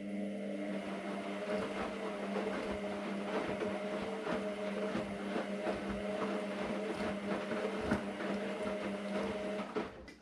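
AEG Lavamat Turbo washer-dryer's drum motor running: a steady motor hum with rough crackling from the tumbling load. It starts suddenly and stops about ten seconds in, one turn of the drum in a wash cycle.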